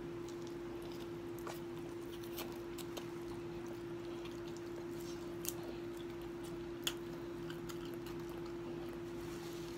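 Quiet chewing of food with a few faint, sharp mouth clicks, over a steady hum.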